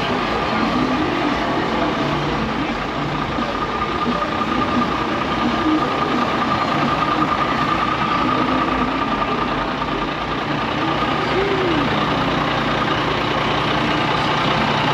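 A large truck engine idling steadily, with a thin steady tone over it and people talking in the background.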